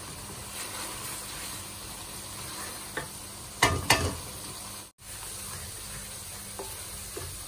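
Tomato-and-spice masala sizzling in oil in a metal kadai while it is stirred with a wooden spoon, at the bhuna stage of frying the masala. There are two sharp knocks a few tenths of a second apart just before the middle, and a momentary dropout about five seconds in.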